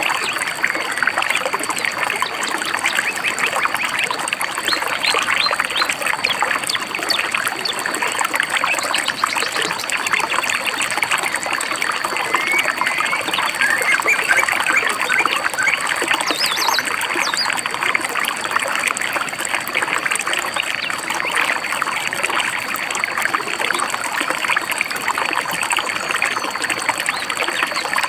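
A stream babbling and trickling steadily over rocks, with birds chirping now and then over it.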